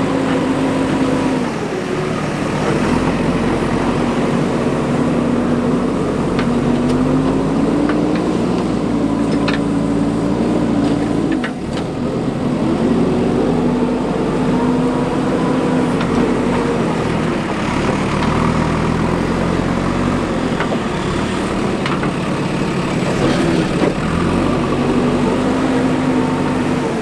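Diesel engine of a JCB 3DX backhoe loader running and revving up and down in slow cycles as it works, with a couple of sharp knocks about ten seconds in.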